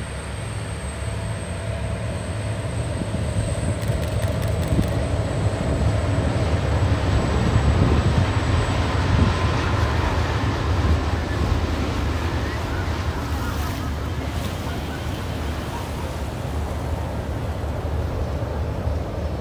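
Sydney Trains C-set double-deck electric train crossing a long rail bridge: a steady low rumble that swells to its loudest about eight seconds in and then eases slightly, with wind on the microphone.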